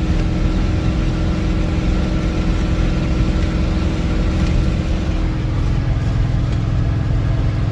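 Ford 7.3 IDI non-turbo diesel V8 running through a straight-piped exhaust with the mufflers cut out, a loud steady low pulsing note. About five seconds in the low exhaust note grows stronger.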